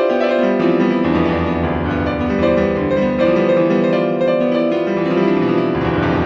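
Background piano music: sustained chords with a bass line shifting every second or so.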